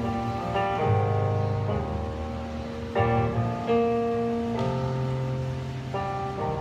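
Live band playing an instrumental passage: held keyboard chords over a bass note, the chord changing every second or so.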